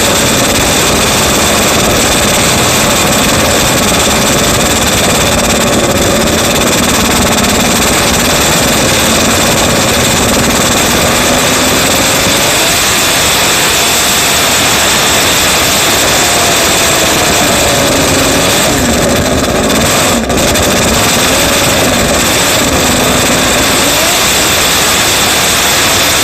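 Honda RA272's 1.5-litre V12 Formula One engine running very loud, held at a steady speed for about twelve seconds, then blipped up and down repeatedly on the throttle.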